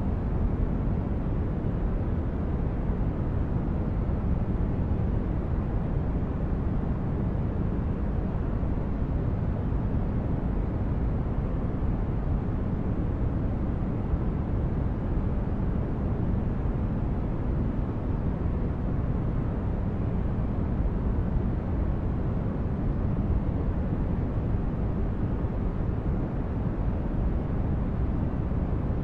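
Continuous white-noise sleep track: a steady, deep hiss weighted toward the low end, even throughout with no changes.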